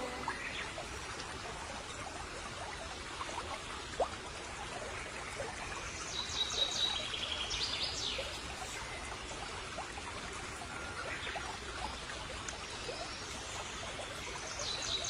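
Stream water flowing steadily. A songbird sings a phrase of clear high notes and quick trills about six seconds in, and again near the end.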